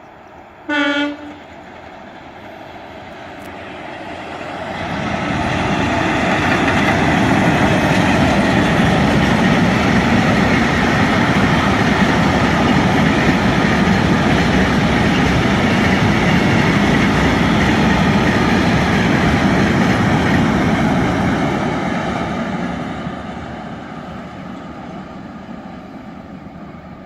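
A locomotive gives one short horn blast about a second in. Then a freight train passes: the noise of the train builds over a few seconds, stays loud for about fifteen seconds, and fades away near the end.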